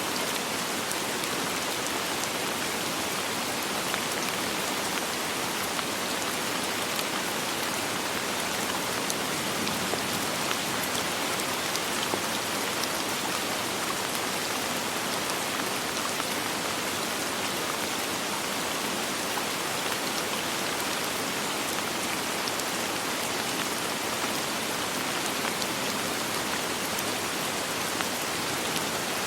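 Steady rain falling, with fine drops ticking on a surface, no thunder.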